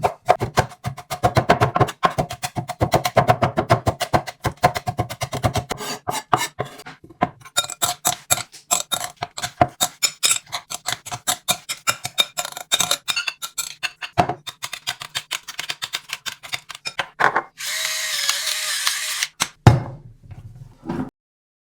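A kitchen knife chopping fast and rhythmically on a cutting board, mincing raw beef for tartare. Near the end the chopping stops and a steady rushing noise runs for about two seconds.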